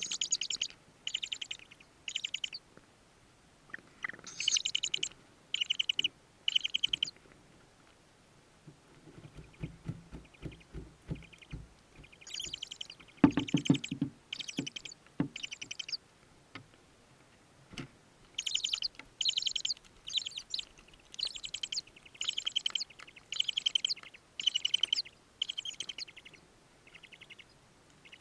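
Tawny owl chicks giving raspy, hissing begging calls in repeated short bursts, each about half a second, in groups. A lower, rougher sound comes in about halfway through.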